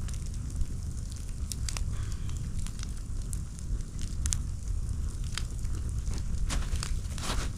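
Wood campfire crackling, with sharp pops scattered irregularly over a steady low rumble and a denser run of crackles near the end.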